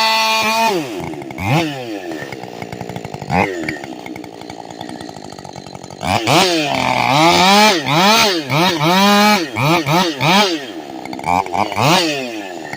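Ported Husqvarna two-stroke chainsaw held at full throttle, dropping to idle about a second in, then revved in a string of quick throttle blips from about six seconds in.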